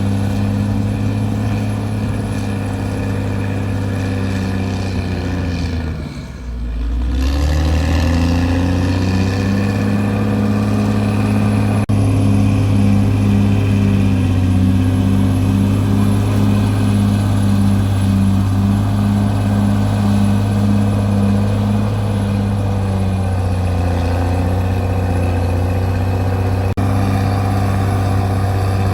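CAT D6R bulldozer's diesel engine running steadily under work. Its pitch and level sag about six seconds in and climb back a second or so later, with another sag near the end.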